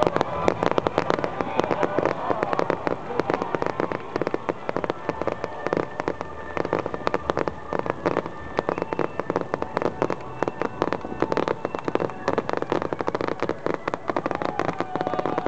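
Fireworks crackling and popping in a dense, irregular barrage of sharp reports, many per second.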